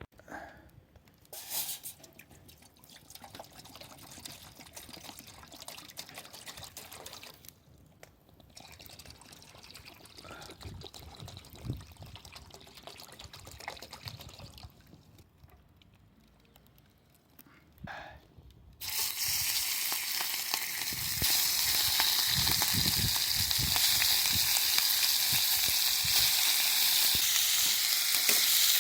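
Light knocks and rustles of handling, then, about two-thirds of the way in, a loud, steady sizzling starts suddenly and grows louder: a pan cooking on a campfire.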